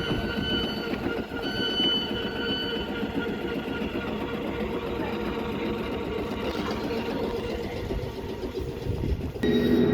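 A train running at the platform: a continuous rail rumble with faint high steady tones coming and going. Just before the end, a louder humming tone starts up.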